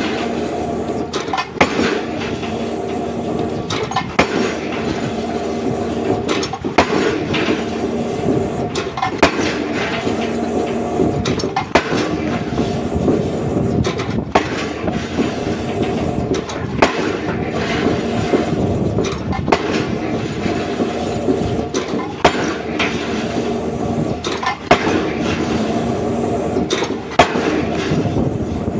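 Pile-driving hammer striking a pile with heavy blows about every two and a half seconds, over the steady running of a machine's engine.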